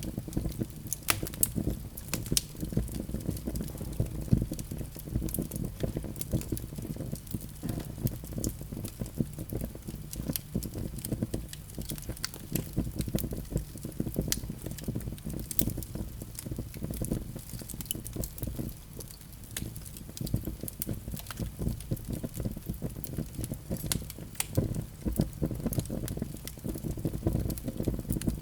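Wood fire burning in a fireplace, crackling with a steady stream of small irregular pops over the low rush of the flames.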